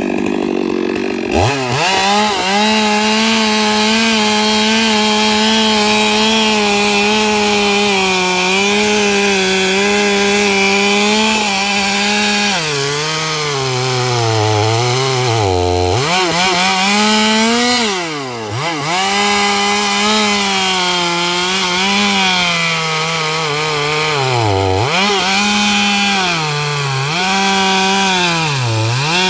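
Stihl MS 382 two-stroke chainsaw at full throttle ripping eucalyptus logs lengthwise. The engine revs up about a second and a half in, then holds a steady high pitch, sagging and picking up again several times as the chain bogs under load in the cut, most often in the second half.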